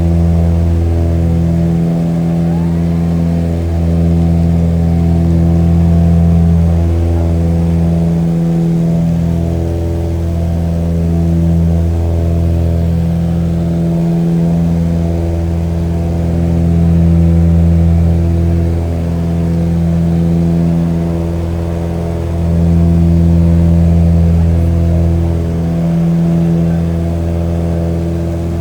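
Steady engine drone of an aircraft, a low hum with a stack of even overtones, swelling and easing slightly every few seconds.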